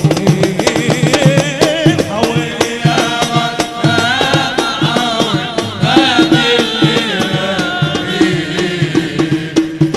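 Middle Eastern wedding music between sung verses: a wavering melody line over steady drum and percussion beats.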